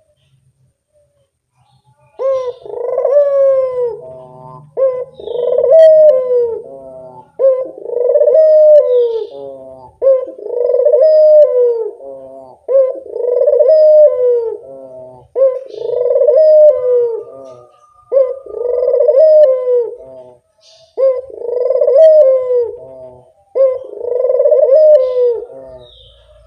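Puter (Barbary dove) cooing: about ten of the same loud coo phrase in a row, one roughly every two and a half seconds, beginning about two seconds in.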